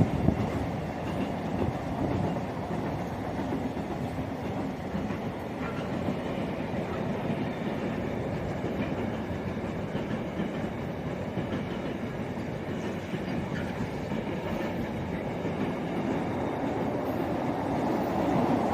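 Long intermodal container freight train rolling past at steady speed, its wagon wheels running over the rails.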